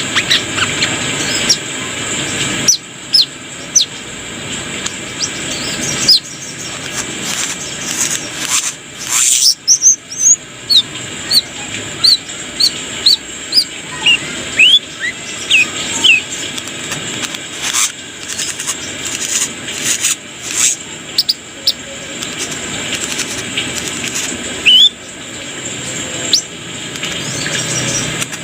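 Brown-throated sunbird (kolibri kelapa) singing: a long run of short, sharp high chirps and whistles, some in quick clusters, over a steady hiss.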